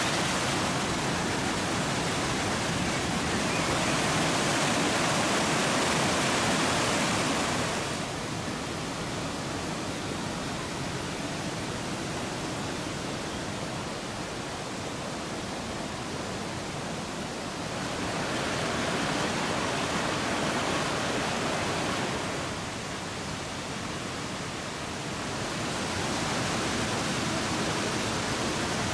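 Waterfalls of the Krka river rushing over travertine cascades: a steady, even noise of falling water. Its level steps down about eight seconds in, back up around eighteen seconds, down again around twenty-two, and up a few seconds later.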